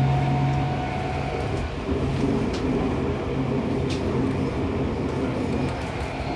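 Seibu 6000 series electric train running, heard from inside a motor car: a steady low hum of traction motors and wheels on rail, with faint clicks. The Toshiba IGBT inverter's whine fades out about a second in.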